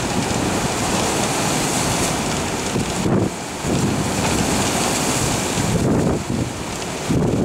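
Typhoon wind buffeting the microphone over heavy surf breaking and spraying against a breakwater. The rushing noise is steady, with low rumbling gusts surging about three, six and seven seconds in.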